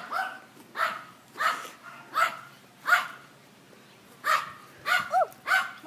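A dog barking repeatedly: a steady run of short barks about every two-thirds of a second, a brief pause about three seconds in, then three more barks.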